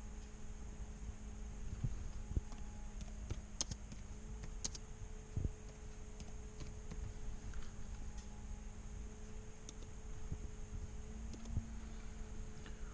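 Scattered key and mouse clicks on a computer as a tune file is saved and edited, over a low steady hum.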